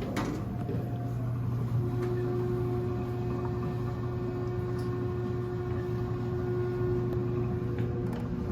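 Otis traction elevator cab travelling down, with a steady low hum and a steady whine that sets in about two seconds in and cuts off near the end.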